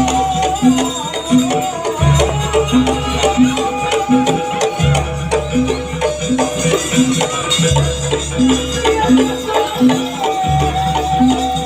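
Live traditional music accompanying a Barong dance: a held, wavering melody line over drums and a short repeating beat, with a deep gong-like stroke returning about every three seconds.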